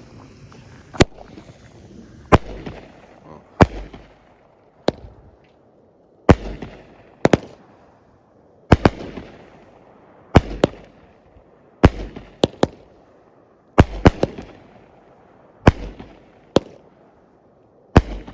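A 200-gram consumer fireworks cake firing its shots one after another, a sharp bang every one to two seconds, many with a low thump and a trailing crackle as the shells break, with a popping sound.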